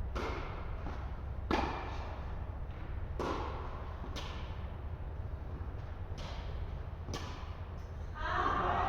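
Tennis rally: six sharp pops of the ball being struck by rackets and bouncing on the court, spaced about a second apart, over a steady low hum, with a voice calling out near the end.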